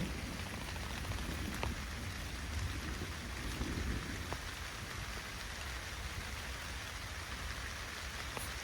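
Steady rain falling, with a few separate drops ticking sharply and a low rumble underneath.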